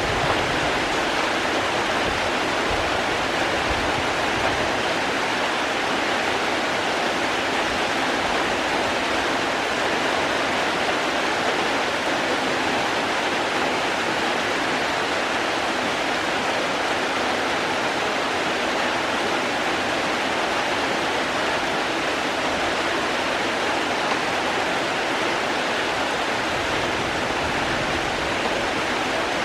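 Steady heavy rain: an even, unbroken rushing hiss with no separate drops or gusts standing out.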